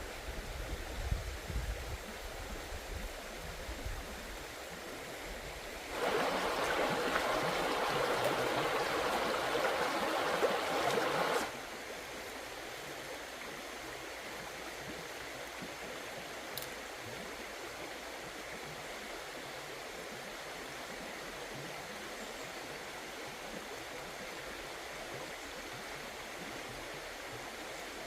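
Steady rush of running water, like a stream. About six seconds in, a louder rush of water lasts for about five seconds, starting and stopping abruptly.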